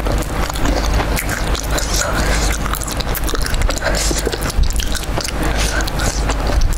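Close-miked biting and chewing of spicy fried chicken in cheese sauce: wet mouth sounds with many small clicks.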